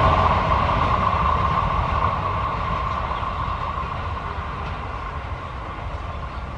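Passenger train of LHB coaches rolling past on the rails, a steady rumble with a wheel hiss that fades gradually as the train moves away.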